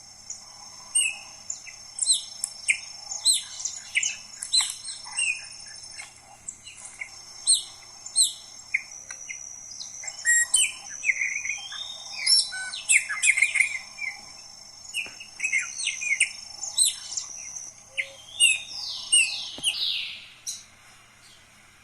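Songbirds chirping and whistling thickly over one another, many short calls overlapping, with a steady high thin tone running underneath.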